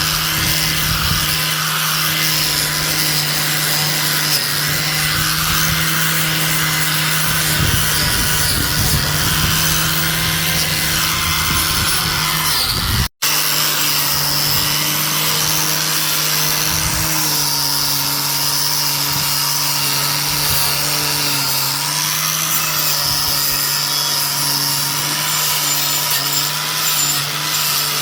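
A power tool running steadily as it works material, with a hum that holds one pitch under a dense rasping hiss. It drops out for an instant about 13 seconds in and carries on unchanged.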